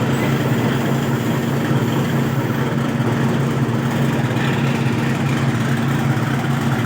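An engine idling steadily: a constant low hum with no change in speed or loudness.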